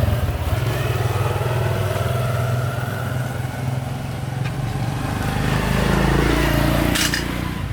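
Motorcycle engine running loudly, its pitch rising as it revs up from about five seconds in, then easing off near the end.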